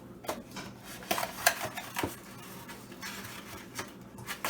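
Light clicks and knocks of eggs being handled and set into a cardboard egg carton, a handful of sharp taps, the loudest about a second and a half in.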